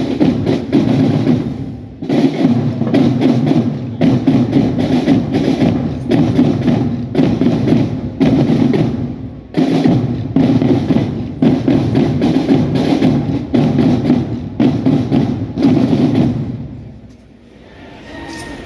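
Marching drum band's drum section, with snare, tenor and bass drums, playing a dense driving rhythm. It breaks off briefly twice and stops about 16 seconds in.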